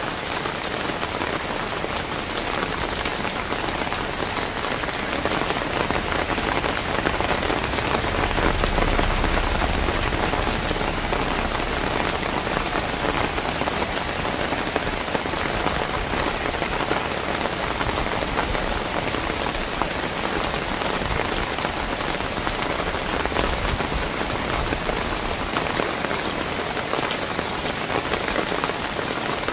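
Steady rain falling on a wet paved lane, roofs and foliage, an even hiss. A soft low rumble swells briefly about eight seconds in.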